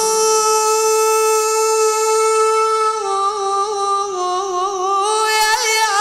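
Unaccompanied solo voice chanting a Husseini lament. It holds one long high note for about three seconds, then wavers through ornamented turns.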